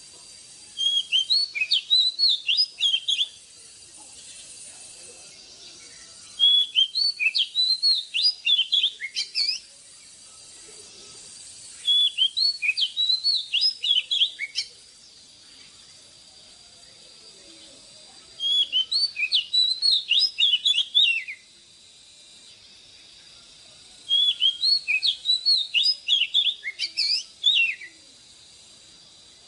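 Oriental magpie-robin singing: five phrases of about three seconds each, made of rapid, varied whistled notes that slide sharply up and down, with pauses of about three seconds between them.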